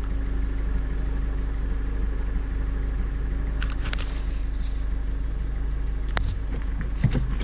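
Car engine running steadily, heard from inside the cabin: a low, even hum. A few light clicks come a few seconds in, and a single sharp click about six seconds in.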